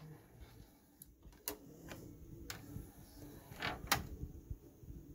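A few faint, sharp mechanical clicks, then a louder double clunk just before four seconds in, as the Sony MHC-1200 mini hi-fi is handled after playback stops.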